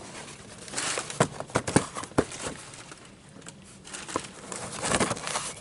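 Packaging being handled during an unboxing: a string of irregular clicks, knocks and crinkling rustles in two spells, about a second in and again near the end.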